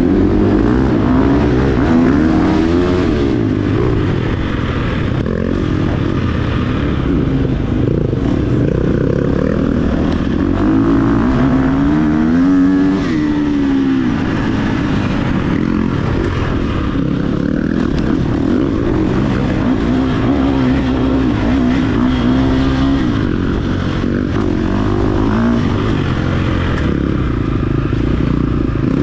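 Dirt bike engine running hard off-road, its pitch rising and falling repeatedly as the throttle opens and closes.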